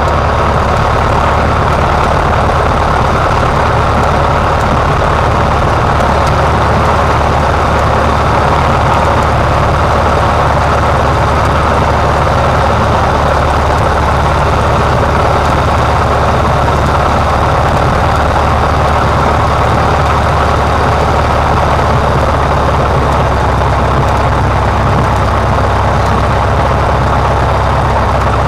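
Cessna 150's four-cylinder Continental O-200 engine and propeller running steadily, heard from inside the cabin as a loud, even drone.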